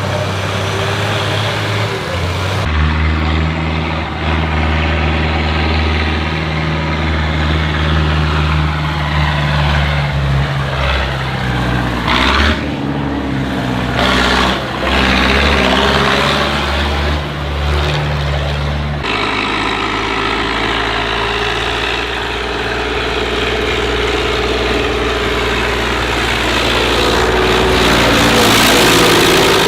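Tractor engines running, mostly at a steady pitch with some rising and falling. The engine sound changes abruptly about three seconds in and again about two-thirds of the way through, as one engine gives way to another.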